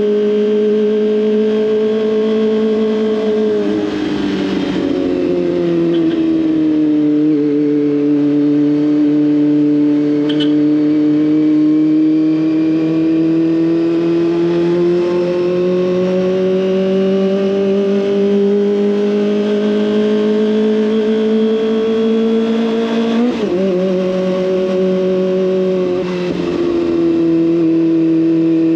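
Kawasaki ZX25R's inline-four engine running through an SC Project exhaust while riding. The engine note drops off a few seconds in, climbs slowly through the middle, then jumps quickly about two-thirds of the way through, as at a gear change, and eases back near the end.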